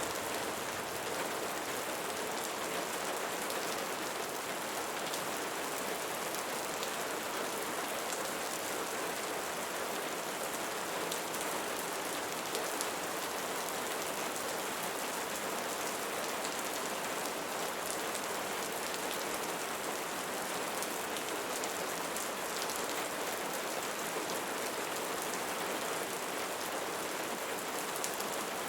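Steady rainfall: an even hiss of rain with fine drop ticks scattered through it, unchanging in level.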